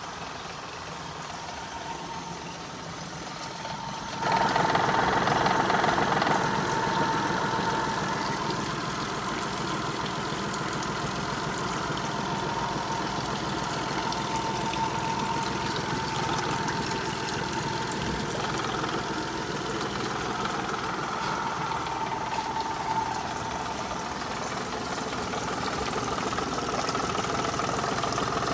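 Yamaha F30BET four-stroke outboard motor running. About four seconds in, it gets suddenly louder, then runs on steadily at the higher level.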